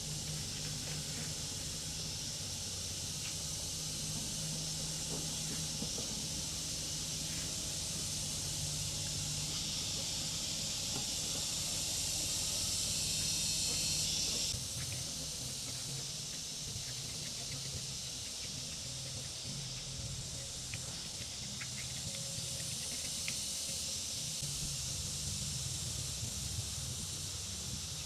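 Steady hiss over a low hum. The hiss grows louder and cuts off suddenly about halfway through, leaving the hum and some faint clicks.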